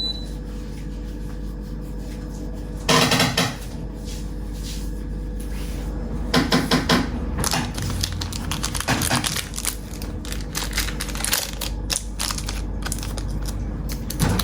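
Vintage Zippo lighter's hinged metal lid snapping open and shut: sharp, ringing metallic clicks in clusters about three, six and nine seconds in, with lighter clinks and ticks in between. The seller calls its ring very resonant.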